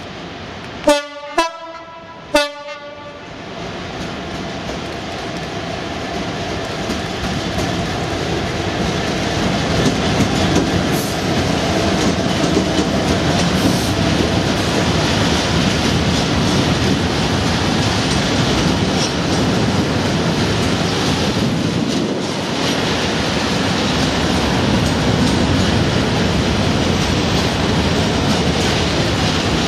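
A Class 66 diesel freight locomotive gives three short horn blasts about a second in. Its train of Network Rail ballast hopper wagons then runs past, the wheel and wagon noise growing over several seconds into a steady loud rumble with clickety-clack from the wheels.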